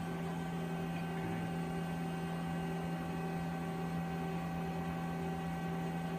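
Steady electrical hum with several fainter steady tones above it, unchanging throughout; no knocks or handling sounds stand out.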